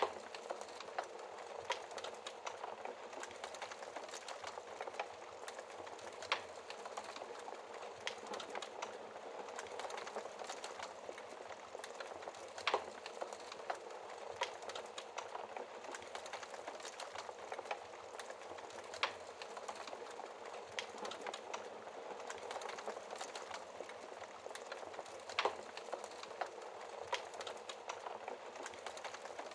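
A wood fire burning and crackling steadily with many small snaps, and a sharper pop about every six seconds.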